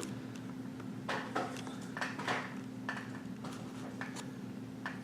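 A utensil stirring sauce in a microwaved frozen-meal tray, with several short scrapes and clicks against the tray. A steady low hum runs underneath.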